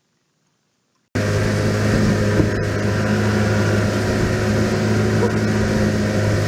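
An engine running steadily, cutting in suddenly about a second in after near silence.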